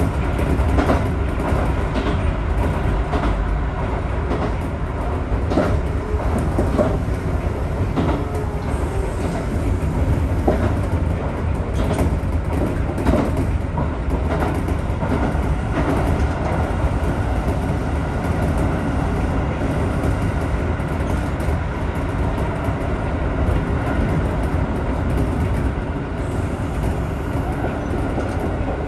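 Electric commuter train running along the track, heard from inside the front car: a steady low rumble with short clicks of the wheels over rail joints, more frequent in the first half.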